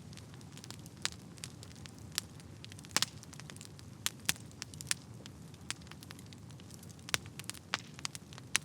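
Fire burning in a fireplace, crackling: irregular sharp pops and snaps over a steady low rumble of the flames, with a louder double pop about three seconds in.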